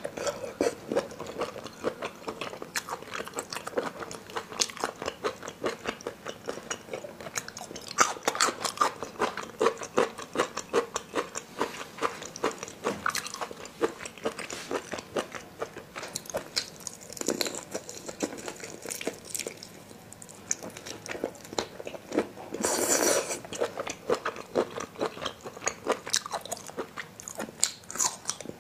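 Close-miked mouth sounds of a person biting and chewing raw marinated shrimp: a dense run of crisp crunching clicks. Late on there is a louder rush of noise lasting about a second.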